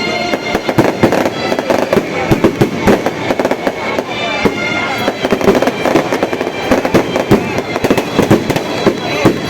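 Fireworks and firecrackers going off in a dense run of rapid, irregular bangs and crackles, with music and voices underneath.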